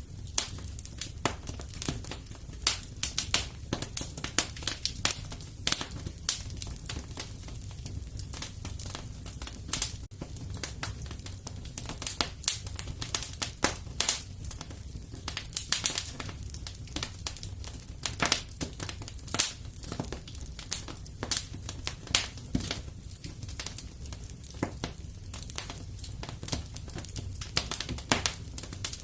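Wood fire in a fireplace crackling: dense, irregular snaps and pops over a low rumble of the flames.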